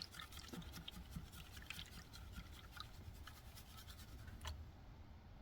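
Faint scraping and light scattered ticks of sand and gravel being worked in a gold pan, with one sharper click near the end.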